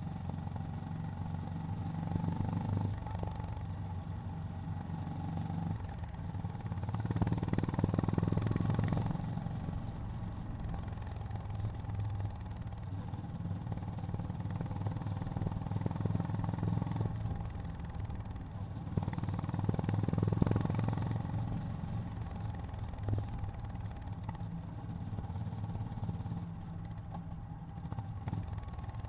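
Honda GB350's air-cooled single-cylinder engine running under way, getting louder twice as the throttle opens, about a quarter of the way in and again past two-thirds.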